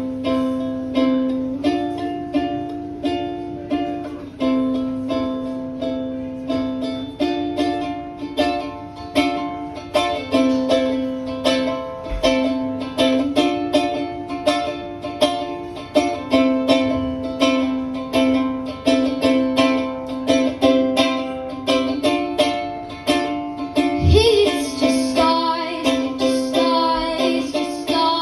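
Upbeat instrumental song intro on a plucked acoustic string instrument: a repeating strummed chord pattern, the chords changing every second or two. A voice joins about 24 seconds in.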